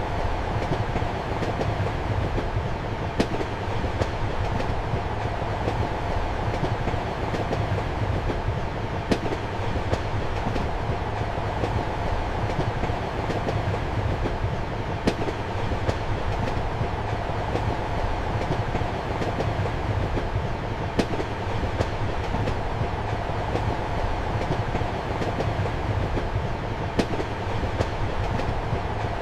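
Steady running noise of a train heard inside a compartment: a constant low rumble and rail hiss, with sharp clicks of the wheels over rail joints, the loudest coming about every six seconds.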